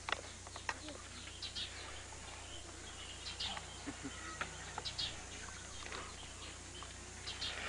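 Short, high bird chirps at irregular intervals over a faint outdoor background and a steady low hum.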